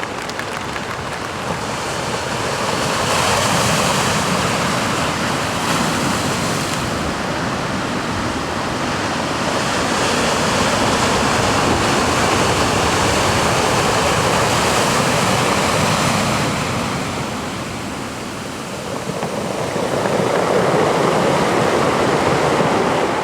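Sea surf: waves washing in as a steady rushing noise that swells and falls back in long surges several times.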